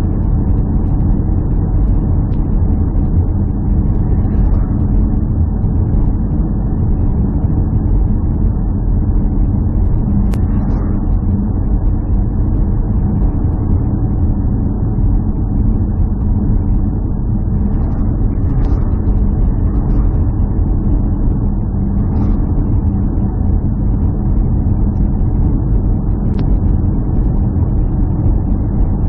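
A running engine, steady and loud, with a low rumble, and a few faint clicks over it.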